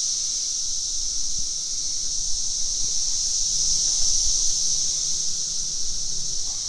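A dense chorus of periodical cicadas from the 2024 broods, a steady high-pitched drone that holds without a break.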